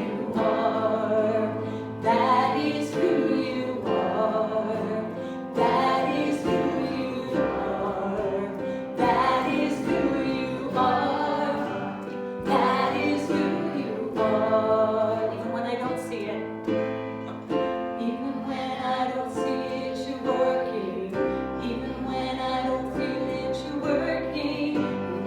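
Contemporary church worship music: a band playing with voices singing over sustained chords and a steady bass line.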